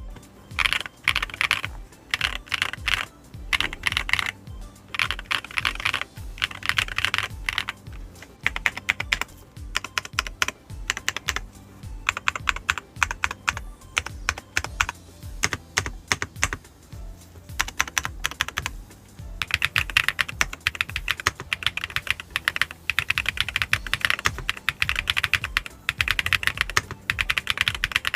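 Fast typing on an ABKO AK998 mechanical keyboard with Melon switches: rapid keystroke clacks in bursts of about a second with short pauses, turning into near-continuous typing about two-thirds of the way in. The keys give the deep 'dogak-dogak' clack the board is known for.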